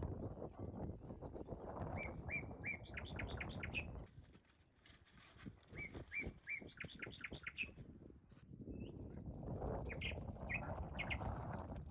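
A songbird sings the same short phrase twice: a few even notes, then a quick run of higher notes. Under it runs a rustling, crackling noise that dies down for a few seconds in the middle.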